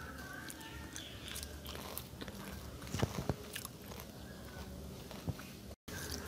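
A person chewing crisp deep-fried battered banana-blossom strips: scattered crunches and chewing, with a few louder crunches about three seconds in.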